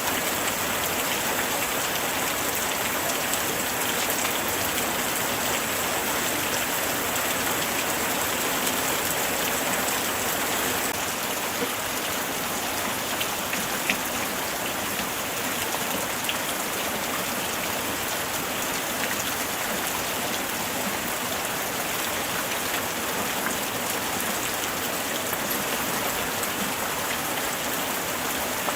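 Steady light rain falling, a continuous patter of drops on surfaces with a few sharper single drops standing out briefly.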